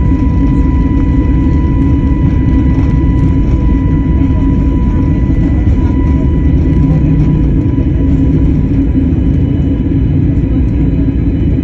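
Airplane engines at takeoff power: a loud, steady rumble with a steady high whine on top.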